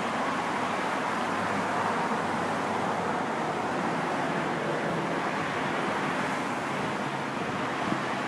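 Jet airliner's engines, a steady broad roar that holds at an even level throughout.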